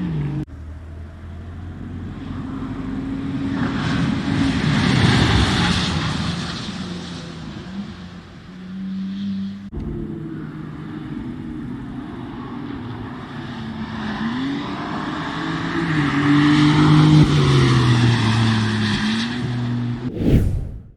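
BMW M4 CS's twin-turbo inline-six driven hard past on a race track, in two drive-bys that each swell up and fade away. The engine note climbs and drops in pitch as it goes. The sound cuts off abruptly near the end.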